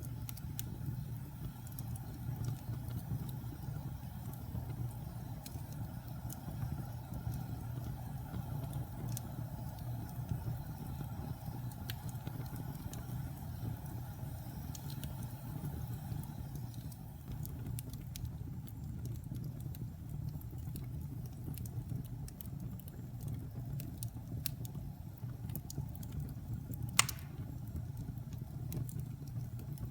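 Wood fire burning in a fireplace: a steady low rumble with scattered crackles and one sharp pop near the end.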